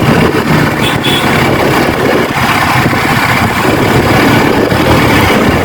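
Motorcycle engine running steadily amid the dense noise of heavy road traffic.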